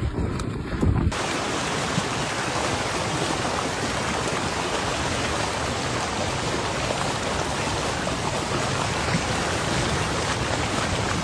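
Gusty noise of wind on the microphone, then about a second in a sudden change to a steady, even rush of water, which fits floodwater or heavy rain.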